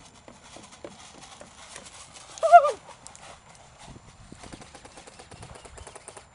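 Rapid, fairly even clicking and tapping, growing steadier in the second half, with one brief wavering cry about two and a half seconds in as the loudest sound.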